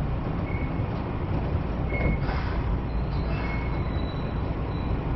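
Kyoto Municipal Subway Karasuma Line train running, heard from inside the car: a steady rumble of wheels on rails, with a few brief faint high squeals.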